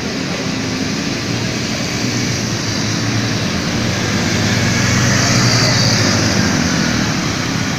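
Heavy rain hissing steadily, with a motor vehicle's engine growing louder to a peak about five seconds in, then easing off as it passes.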